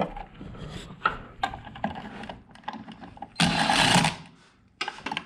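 Hand ratchet and socket clicking as the two 10 mm bolts of the accelerator pedal sensor cover are tightened down, with a louder rasping burst of quick ratcheting lasting under a second about three and a half seconds in.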